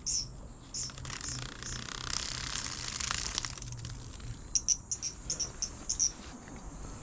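Insects chirping: short high chirps repeating about three a second, then a quicker cluster of chirps about four and a half seconds in, over a faint steady high whine.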